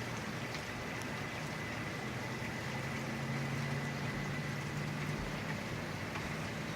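Steady storm rain noise, with the low hum of a vehicle engine swelling about three seconds in and easing near the end.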